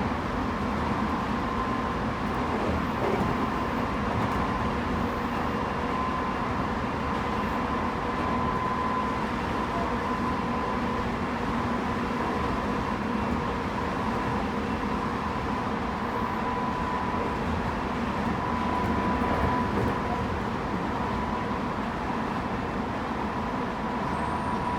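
Tobu 9050 series electric train car running along at a steady pace, heard from inside the car: an even running rumble of wheels on track with a faint steady whine held through it.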